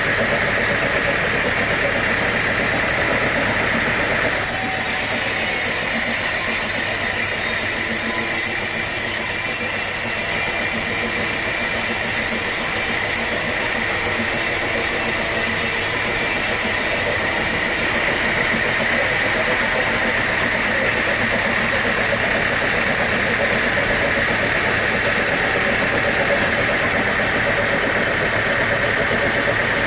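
Sawmill machinery running steadily, with a high hissing noise that starts abruptly about four seconds in and stops abruptly about eighteen seconds in.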